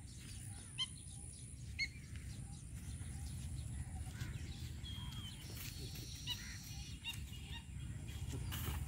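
Birds calling now and then: short calls about a second in and again a second later, then a few more brief chirps and thin whistles in the second half. Under them runs a steady low rumble.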